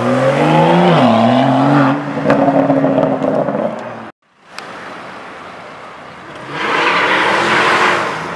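BMW M2 engine accelerating past, its pitch rising, dipping about a second in, then holding steady. After an abrupt cut, street traffic, with another car passing loudly near the end.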